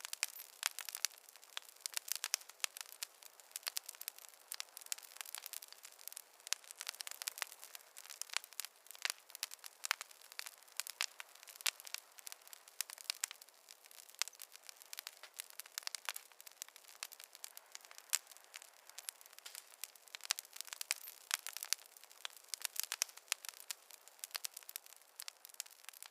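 Wood fire crackling in a fireplace: a dense, irregular stream of small pops and snaps, thin and without any deep roar.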